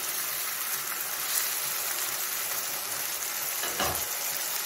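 Cauliflower florets sizzling in a nonstick kadai, with a spatula stirring at first. The milk-and-cream sauce has cooked down until the ghee separates, so the florets are frying in the released fat. A light knock near the end.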